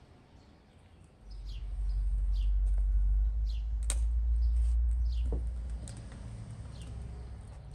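Small birds chirping, a string of short falling chirps every half second or so, over a low rumble that starts about a second in and fades out around six seconds. A sharp click about four seconds in.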